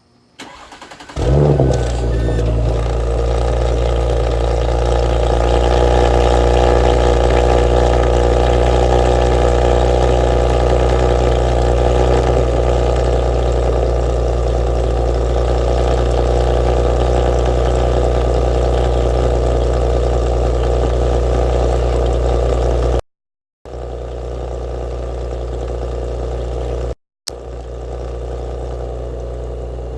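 2018 Audi B9 S5's turbocharged V6 with a modified exhaust, cold-started: a brief crank, the engine catches with a sharp flare about a second in, then settles into a steady fast cold idle. The sound cuts out completely twice near the end.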